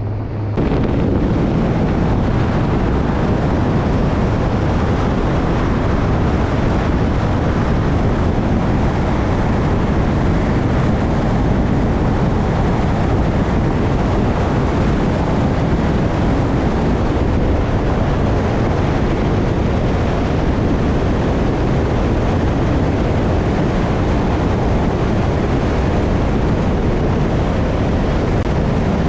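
Steady rushing wind noise buffeting the microphone, starting abruptly about half a second in.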